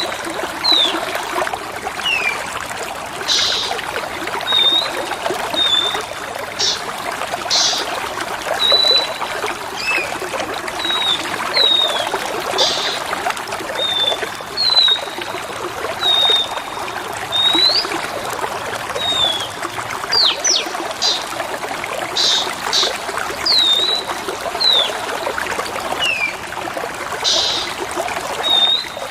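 Water trickling steadily under a bird's short whistled notes, mostly slurred or falling, and brief high chirps, one every second or so.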